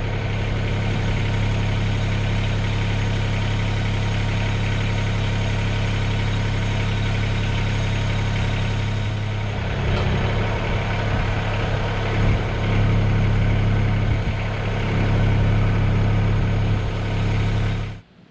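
Diesel engine of a Mahindra eMax 20S HST compact tractor running steadily, its note shifting and unsettling in the second half. The sound stops abruptly near the end.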